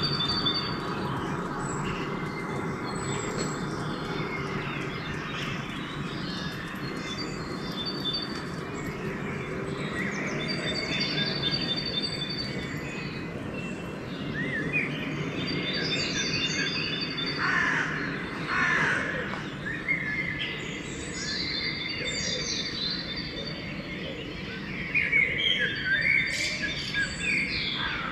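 Dawn chorus of several wild birds singing. A high whistled phrase repeats every few seconds, and louder sweeping calls come in around the middle and again near the end, over a steady low background rumble.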